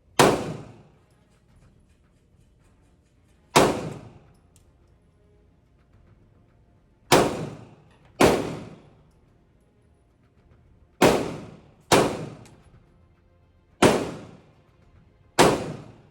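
Eight single gunshots, fired one at a time one to three seconds apart, each a sharp crack with a short echoing tail.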